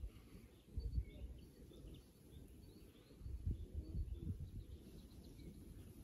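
Small birds chirping in short, faint calls, with low rumbling bumps on the microphone about a second in and again around three and a half to four seconds in.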